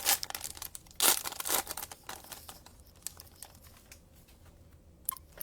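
Plastic wrapping crinkling and tearing as a sealed box of trading card packs is opened by hand, with a loud rip about a second in and then softer crackling and a few light clicks near the end.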